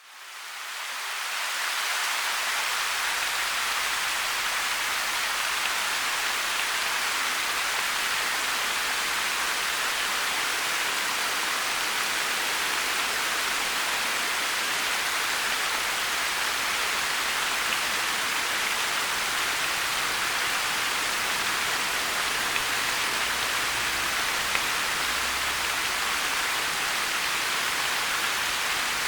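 Steady heavy rain, an even hiss that fades in over the first two seconds and then holds without a break.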